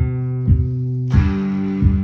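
Instrumental guitar music with a steady beat of about three knocks every two seconds; the chord changes about a second in.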